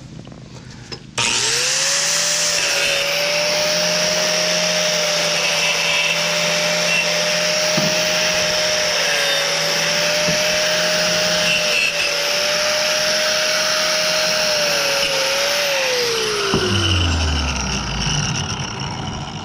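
Electric power tool switched on about a second in and running at a steady high speed, then switched off and spinning down with a falling pitch over a couple of seconds near the end.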